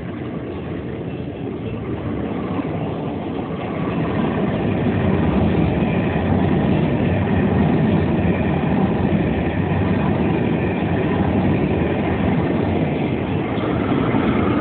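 Work train passing close by: a locomotive engine and wheels rumbling on the rails. It grows louder over the first five seconds or so, then holds steady.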